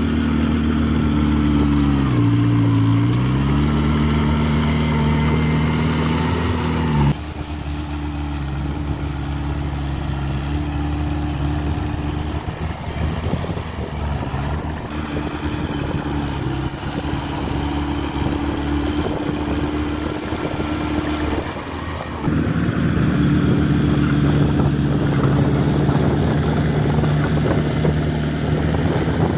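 Diesel engine of earthmoving equipment running under work load. Its pitch dips and recovers a couple of seconds in, and the sound changes abruptly twice, at about a quarter and three quarters of the way through.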